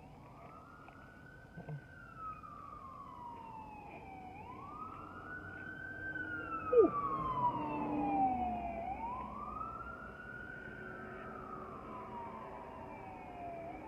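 Emergency vehicle siren wailing, its pitch rising quickly and falling slowly about every four seconds. It grows louder toward the middle and then eases off a little.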